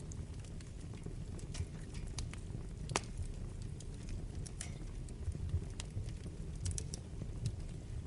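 Wood fire burning in a fireplace: irregular sharp crackles and pops over a steady low rumble of flames, with one louder pop about three seconds in.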